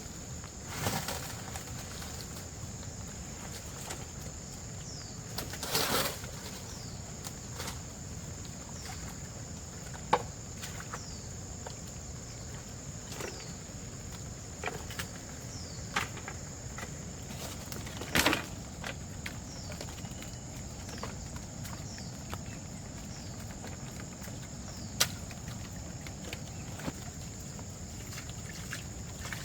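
Outdoor ambience with a steady high-pitched drone of insects. Scattered sharp knocks and rustles stand out about 1, 6, 10, 16, 18 and 25 seconds in, with faint short chirps between them.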